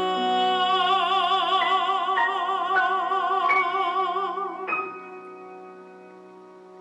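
Music: a singer holds one long note with vibrato over sustained keyboard accompaniment whose top notes climb in several steps. About five seconds in the voice stops, and a quieter held chord lingers.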